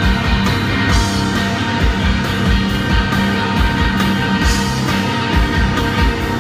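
Rock band playing live: sustained electric guitars over a steady drum beat, with about two low kick-drum hits a second.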